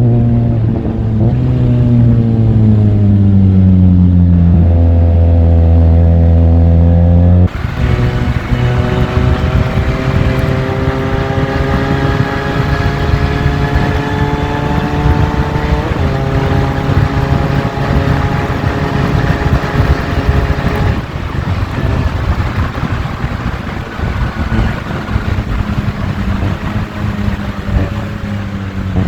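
Benelli 502C's parallel-twin engine heard while riding. It slows down over the first few seconds and then holds steady. After a sudden change about seven seconds in, wind rush joins it, and the engine pitch climbs steadily through the gears with a step in the middle. It eases off again near the end.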